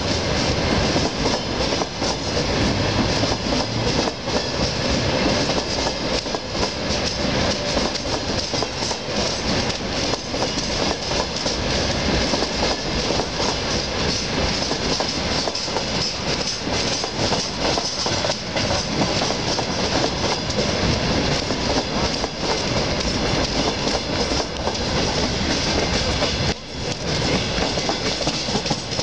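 Freight train wagons rolling past on steel wheels: a steady, unbroken noise of wheels running on the rails.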